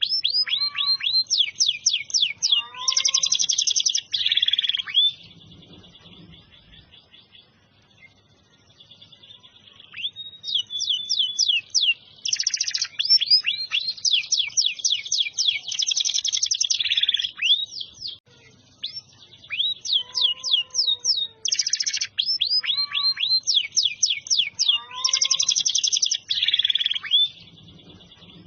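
Domestic canary singing in long, loud phrases of rapid rising and falling whistles and rolling trills. The song stops for about five seconds after the first phrase, then resumes and keeps going with only a brief break.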